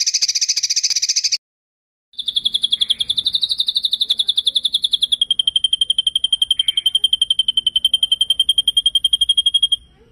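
A songbird's rapid rolling trill. A short buzzy trill ends just after the start, then after a brief gap comes a long, even trill of about ten notes a second lasting some seven seconds, its pitch dropping slightly about halfway and then holding steady.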